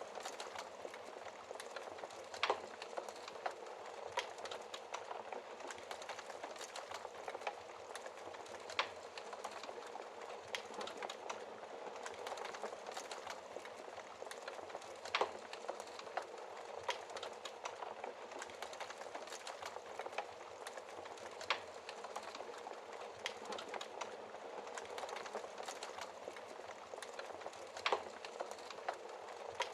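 Wood fire crackling in a fireplace: a steady hiss of fine crackles with a few louder sharp pops scattered through it.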